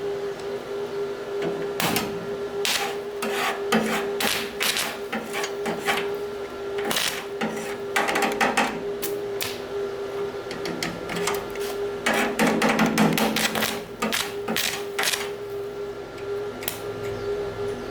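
Irregular clicking and knocking, like hand tools on metal, over a steady hum.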